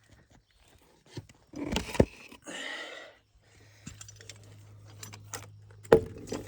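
Metal rigging hardware clinking and knocking as it is handled, with a louder clatter about two seconds in and a sharp knock near the end. A steady low hum starts about halfway through.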